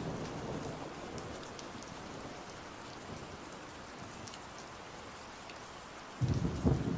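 Steady rain with faint scattered ticks and a low rumble of thunder that dies away. Near the end a loud rumble of thunder starts suddenly.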